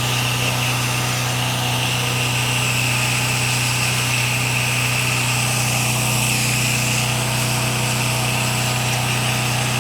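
Pressure washer engine running steadily at constant speed, with a steady hiss of the spray wand laying soap down.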